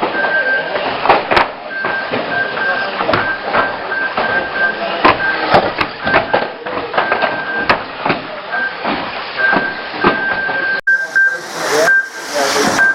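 Radio-controlled banger cars racing and colliding: repeated sharp knocks and clatters over an on-off high-pitched whine, with voices chattering in the background.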